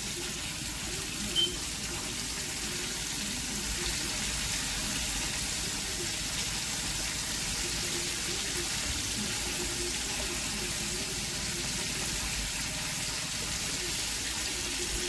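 Flour-coated chicken legs frying in hot oil: a steady sizzling hiss, with a short click about a second and a half in.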